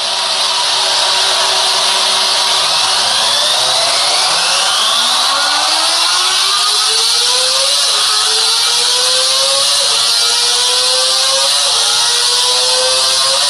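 Kawasaki ZX-25R's 249 cc inline-four engine at full throttle, its pitch climbing steadily for several seconds. It then keeps climbing in stages, with a short dip about every two seconds, as at upshifts.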